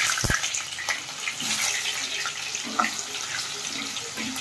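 Food frying in hot oil in a pan: a steady sizzle with fine crackling. There is one dull low knock just after the start.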